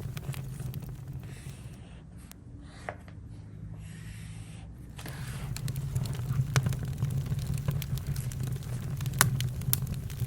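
Campfire burning: a steady low rumble with scattered sharp crackles and pops, the loudest pops about six and nine seconds in.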